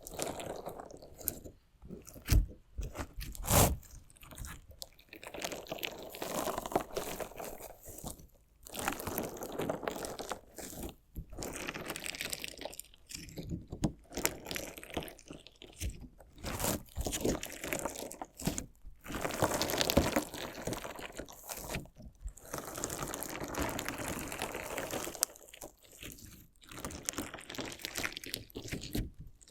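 Crunchy slime mixed with small decorative stones being cut, poked and squeezed, making bursts of crackling crunches with short pauses between them. There are two loud sharp clicks two to four seconds in.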